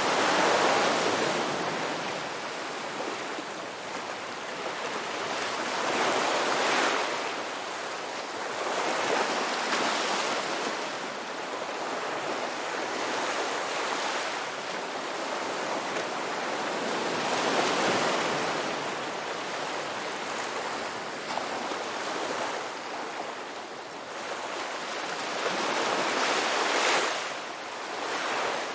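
Sea waves breaking and washing ashore, a continuous surf hiss that swells into a louder breaker every few seconds. The strongest breakers come just after the start and again near the end.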